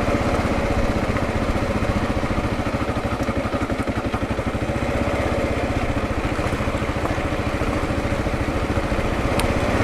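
A 2022 Kawasaki KLR650's single-cylinder four-stroke engine running steadily on the move, with an even, rapid pulse.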